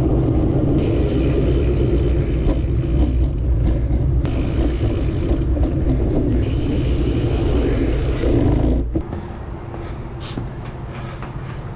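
Wind buffeting the microphone of a camera on a moving bicycle, a loud steady rumble mixed with road noise. About nine seconds in it drops off abruptly to a much quieter hiss.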